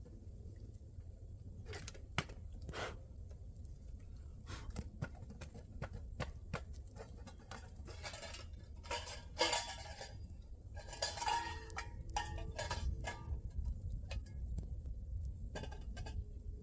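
Irregular metal clinks and scrapes of a utensil against metal cookware while handling food, busiest from about the middle of the stretch on, over a steady low rumble.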